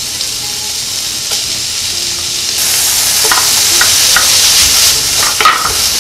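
Sliced onion and beef sizzling in a frying pan. About halfway through, the sizzle grows louder as washed, dried eggplant strips go into the pan, and a wooden board and spoon knock against the pan a few times.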